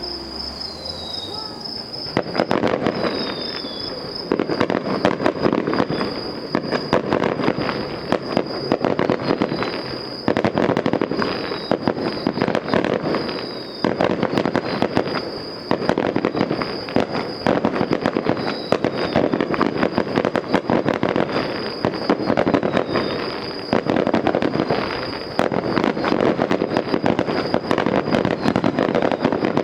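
Fireworks finale: a dense barrage of shell bursts and crackling that begins about two seconds in and comes in repeated surges. A steady high-pitched tone sits beneath it.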